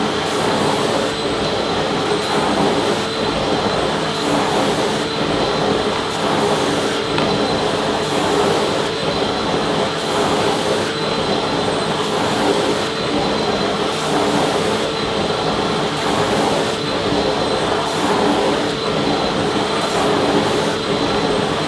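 Vacuum cleaner running steadily: an unbroken rush of air with a few constant tones in it.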